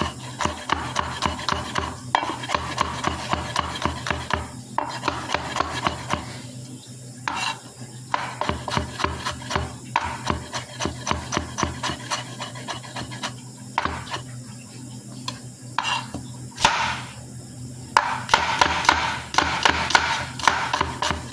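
Kitchen knife chopping on a cutting board: quick strokes, several a second, in runs broken by short pauses.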